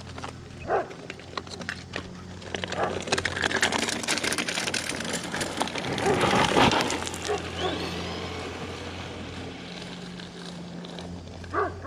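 Redcat Volcano EPX RC truck with a brushless motor driving by: its noise builds to a peak about six and a half seconds in, then fades. A steady low hum runs underneath.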